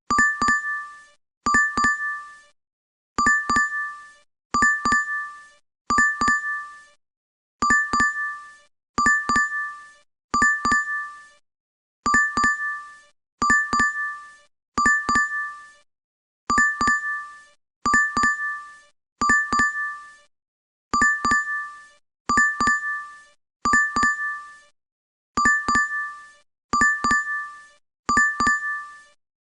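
DoorDash app alert chime: a short, bright double ding that repeats over and over, about every one and a half seconds, in groups of three.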